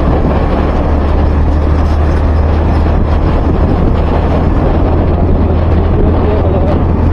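Steady wind buffeting the microphone of a moving two-wheeler, over a low rumble of engine and road noise.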